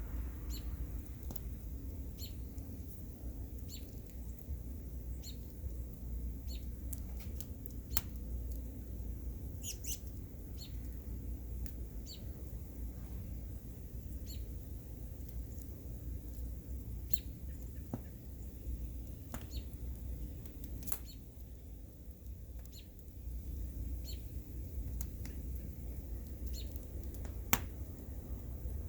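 Bonfire crackling: scattered sharp pops and snaps of burning wood, about one every second, a few louder than the rest, the loudest near the end, over a steady low rumble.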